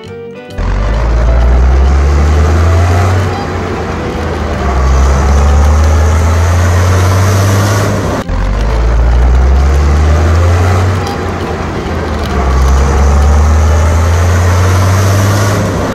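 Motor vehicle engine running with a heavy low rumble that swells and eases in level. It breaks off sharply about eight seconds in and the same stretch plays again.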